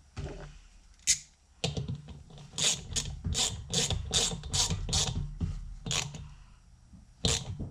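Hand ratchet tightening a bolt on a car's radiator fan assembly: a run of regular ratcheting strokes, about two to three a second, with a sharp click about a second in and another near the end.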